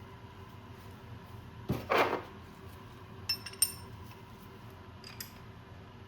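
Metal tools and parts being handled: a knock and a short scrape about two seconds in, then three light ringing metal clinks.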